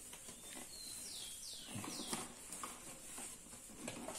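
A bird calling: a quick run of about four high chirps, each sliding downward, between one and two seconds in. Under it, faint rustling and light taps of paper tubes being woven by hand.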